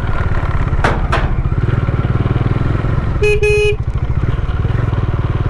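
Bajaj Dominar 400 motorcycle engine running steadily under way, with a horn giving two quick honks a little past halfway, a warning sounded for the blind curves of a narrow mountain road.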